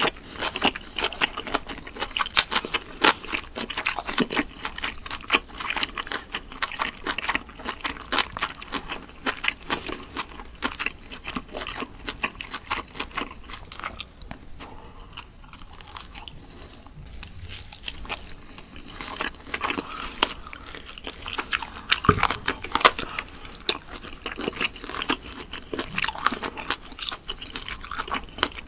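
Close-miked chewing of grilled meat skewers, a dense run of small sharp mouth clicks that thins out for a few seconds in the middle, then picks up again.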